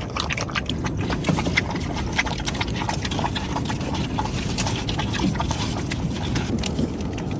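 Heavy rain falling, with many irregular taps and knocks from drops striking a hard surface over a steady low rush of water.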